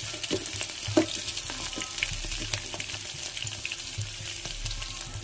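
Slit green chillies frying in hot oil with tempering seeds in an aluminium pot: a steady sizzle with many small crackling pops, stirred with a metal spoon.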